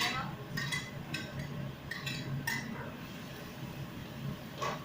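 Kitchenware clinking: a utensil knocks against pots and dishes about six times, each clink ringing briefly.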